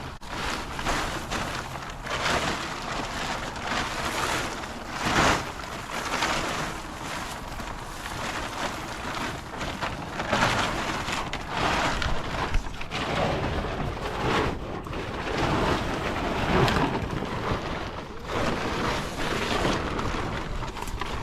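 Plastic tarp rustling and crackling in uneven surges as it is unfolded and handled.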